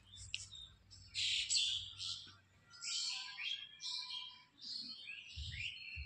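Birds chirping and calling in repeated high bursts, several calls overlapping, with a few low thumps near the end.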